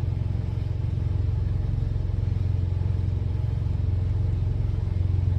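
A diesel truck engine idling: a steady low rumble with an even, rapid pulse.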